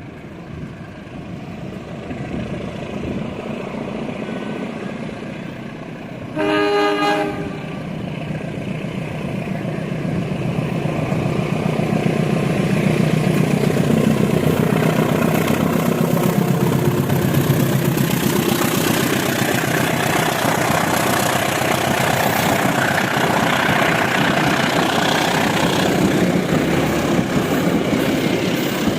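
Diesel-locomotive-hauled train sounding one short horn blast, then growing louder as it comes close and runs by, with engine rumble and wheel-on-rail noise.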